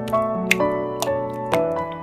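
Piano music playing a melody over chords, with new notes every half second or so. A few sharp clicks sound over it.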